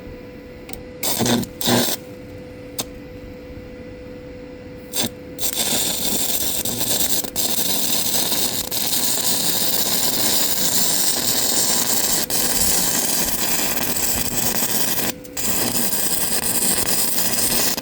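Stick-welding arc from an ESAB Handyarc inverter running 1/8-inch Tartan B, an E6010-type rod. A couple of brief strikes come about a second in. From about five seconds in there is a steady arc noise, broken once by a short pause near the end.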